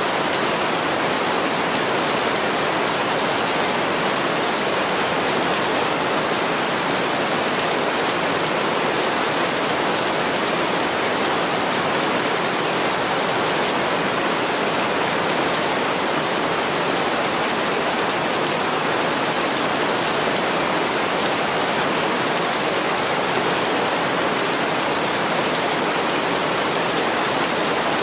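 Heavy rain pouring steadily against window glass: an even hiss with no single drops or knocks standing out.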